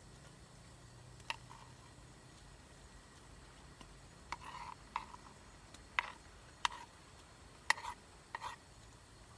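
Metal utensil clinking against a cooking pot while food is stirred, about seven light, irregular clinks, several with a short ring.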